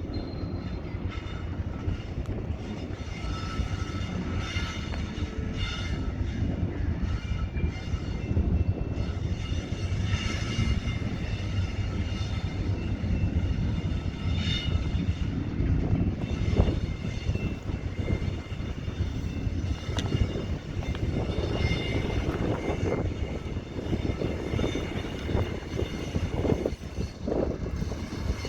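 CSX double-stack container freight train rolling past: a steady rumble of steel wheels on rail with a faint high squeal. Sharper clacks come in over the second half as the cars cross the junction.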